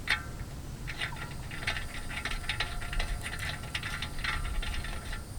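Steel wheel stud being threaded by hand into a wheel hub, giving a run of small metallic clicks and faint squeaks as the threads turn.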